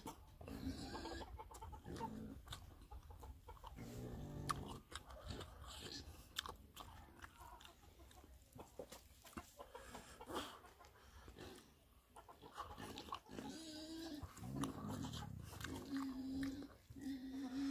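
Close-up chewing and crunching on cooked pig's feet: many small wet clicks and crunches. Short animal calls sound in the background, with a couple of brief held notes near the end.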